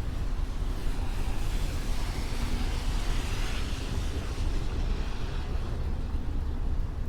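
A vehicle passing on a wet street, its tyres hissing as it swells up and fades away over a few seconds, over a steady low rumble of traffic.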